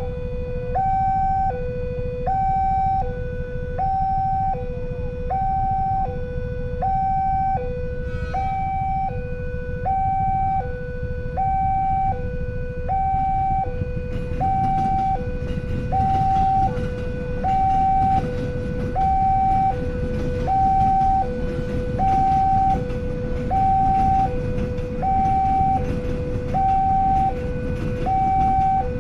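Two-tone hi-lo emergency vehicle siren, alternating evenly between a high and a low note about every three-quarters of a second, over a steady rumble of traffic and engines; more road hiss comes in about halfway through.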